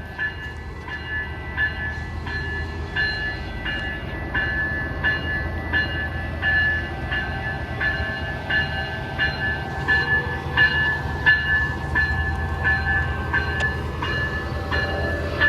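Amtrak diesel passenger train pulling out of a station: a low engine rumble builds, with a bell ringing in even strokes about three times every two seconds. No horn is sounded.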